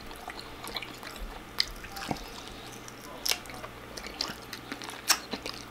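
A person chewing food, with a few sharp mouth clicks scattered through.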